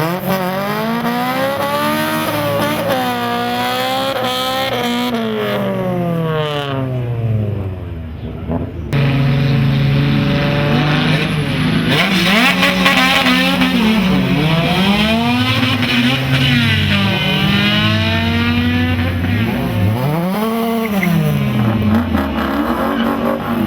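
Diesel pickup truck engines under full throttle on quarter-mile drag runs. The pitch climbs and then drops back at each gear change. About nine seconds in, the sound cuts suddenly to another run with the same rise-and-drop shifting.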